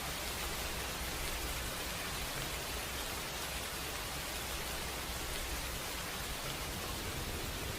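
Steady rain falling, an even hiss without breaks or thunderclaps.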